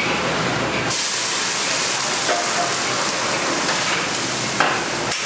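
A loud, steady hiss that starts abruptly about a second in and stops near the end, followed by a few sharp clicks.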